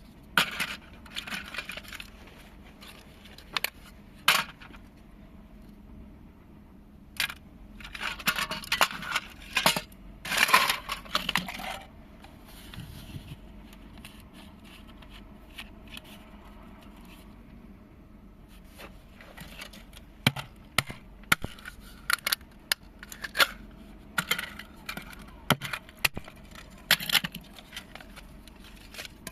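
Small hard parts being handled: irregular clicks, taps and clinks with stretches of scraping, in three busy spells with quieter handling between.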